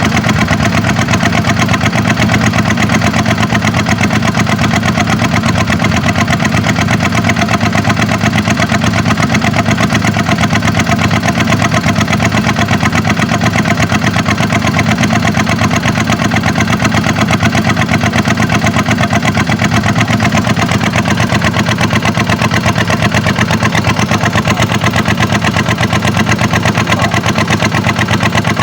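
Kubota tractor's diesel engine running steadily at an even speed, with no revving up or down.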